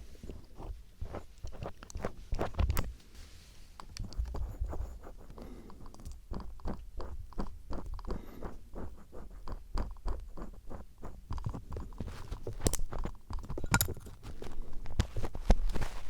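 Star screwdriver tip scraping and tapping at a microphone's ear for ASMR ear cleaning: an irregular run of short, crunchy clicks and scrapes that grows denser about six seconds in.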